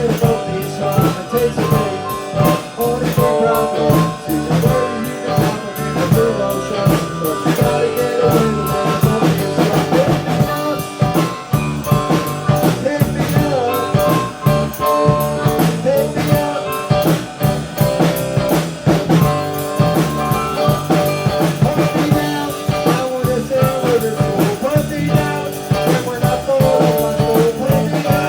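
Live full band playing a beach-country song, with drum kit keeping a steady beat under guitars.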